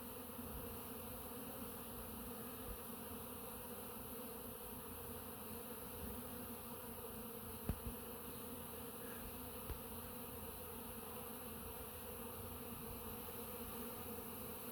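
Swarm-like buzz of many honeybees in heavy flight at a hive entrance, a steady hum with no let-up. A few soft knocks come around eight to ten seconds in.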